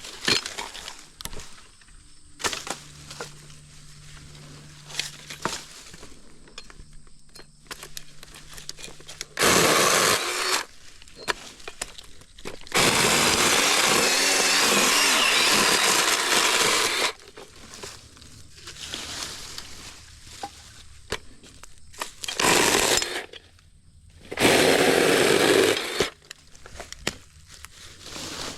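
Battery-powered saw cutting through tree branches in four runs: a short cut, a long steady cut of about four seconds, then two shorter cuts near the end, with small clicks and rustling of branches between them.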